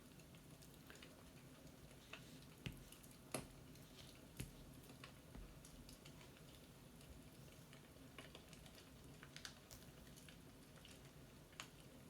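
Faint fireplace crackling: a low steady rumble with a few scattered sharp pops, three of them close together a few seconds in.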